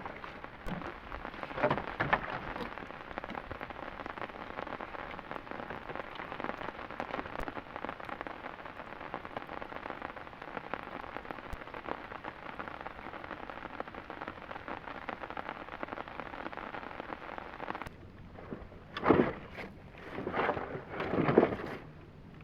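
Heavy rain falling steadily, a dense hiss of many small drop impacts. About 18 seconds in the rain sound drops away, and three louder brief noises follow near the end.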